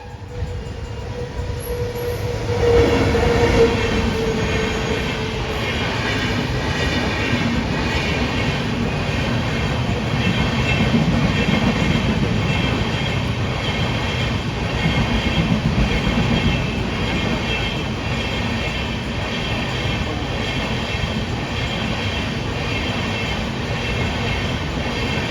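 A train running past, a steady rumble of wheels on the track that swells up about two and a half seconds in, with faint high squealing tones above it.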